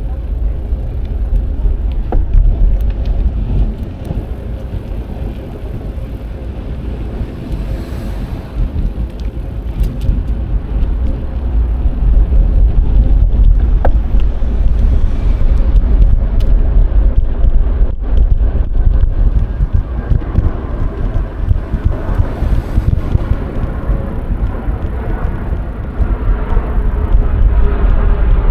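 Wind buffeting an action camera's microphone on a moving bicycle, a heavy low rumble, mixed with tyre and road noise and a few small clicks.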